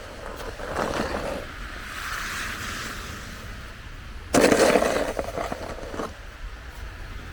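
Snow shovel scraping over snow and pavement, with a sudden louder scrape about four and a half seconds in.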